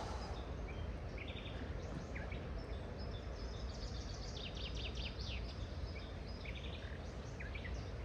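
Wild birds chirping and calling over a steady low rushing background, with a quick run of chirps about four to five seconds in.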